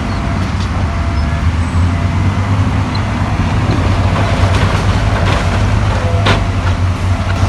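Heavy diesel engine of earthmoving machinery running steadily with a deep low hum. Scattered light clicks, and one sharp clank about six seconds in.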